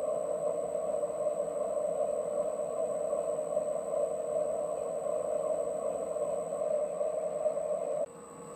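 PM 1130 metal lathe turning a crankshaft from bar stock, the tool cutting the shaft down to 3/8 inch with a steady running and cutting noise; about 8 seconds in the cutting noise stops suddenly, leaving the lathe's quieter steady hum.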